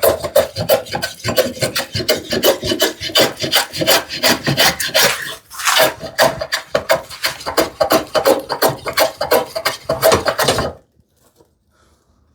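Hand plane traversing a narrow wooden strip, cutting across the grain in quick short rasping strokes, several a second, that stop near the end.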